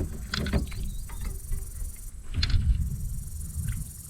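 A steady high buzz of insects, like crickets, over a low rumble, with a few short sharp clicks and knocks about half a second in and again about two and a half seconds in.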